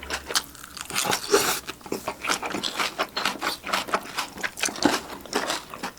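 Close-up chewing and crunching of sauced roast chicken with shredded green onions: a steady run of quick, crisp mouth clicks and crackles.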